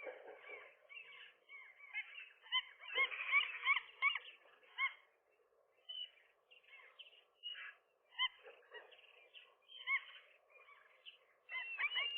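Gulls calling, a rapid series of short arching calls that comes and goes, loudest a few seconds in and again, denser, near the end.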